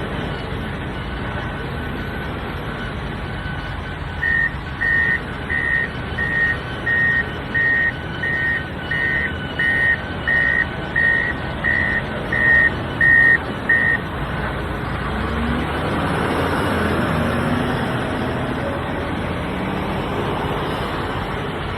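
Wheel loader's diesel engine running, with a reversing alarm beeping steadily about one and a half times a second from about four seconds in until about fourteen seconds. After the beeping stops the engine grows louder for a few seconds, as under load.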